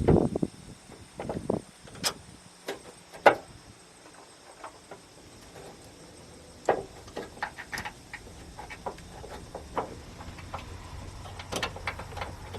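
Hand tools and metal parts clicking and clinking during work on a truck's starter solenoid: scattered sharp clicks and knocks, the loudest about three seconds in.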